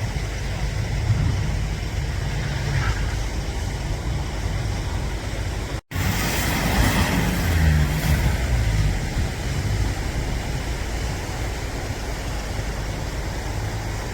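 Off-road 4x4 vehicle engines running with a low rumble. An abrupt cut just before halfway, then a louder stretch for a few seconds before it settles back.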